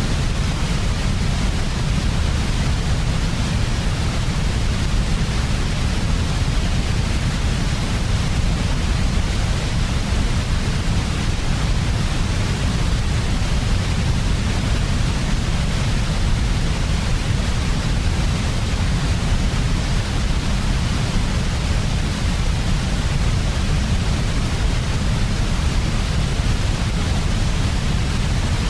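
Steady, unchanging white noise made for infant sleep: an even hiss with a heavier low rumble beneath it.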